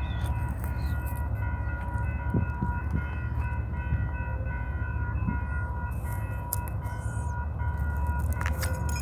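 Freight train running steadily, a constant low rumble with a thin, unchanging high whine over it.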